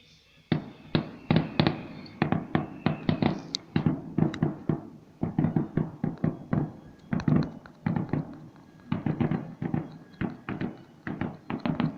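A fireworks barrage: a fast, irregular run of sharp bangs and crackles, several a second, starting about half a second in.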